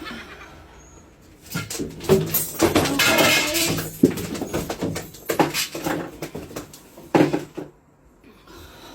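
A seagull scuffling about at close range: irregular bursts of scrabbling, knocks and clatter, busiest in the first half and dying away near the end.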